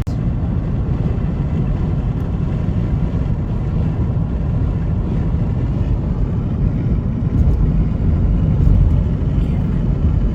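Steady road and engine noise of a car cruising at highway speed, heard from inside the cabin: a constant low rumble with no sudden events.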